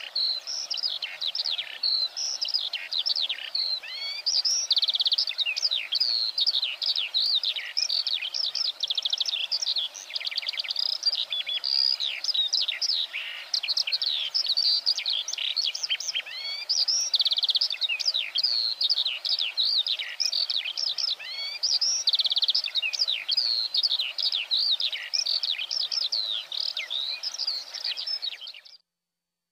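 Eurasian skylark singing: a long, unbroken stream of fast, high warbling notes and trills, which stops abruptly shortly before the end.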